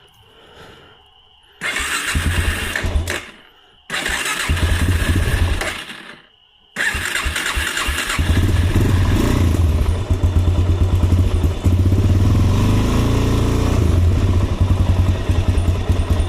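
Four-wheeler (ATV) engine being started: two attempts of about two seconds each that do not keep it running, then it catches on a third try about seven seconds in and runs steadily.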